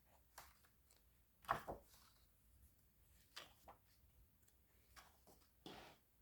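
Faint rustles and soft taps of a book's paper pages being turned and handled, a handful of short sounds with the loudest pair about a second and a half in and a longer rustle near the end.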